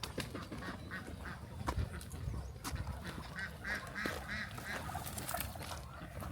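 Muscovy ducks calling: a quick run of about five short calls a little past the middle, over a steady low rumble.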